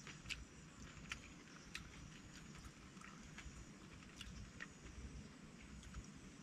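Faint chewing and crunching of food, heard as sparse, irregular small clicks over a low rumble.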